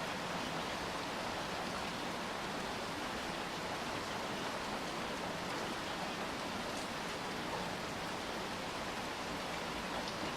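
Steady rain falling and hissing, with a few faint drop ticks.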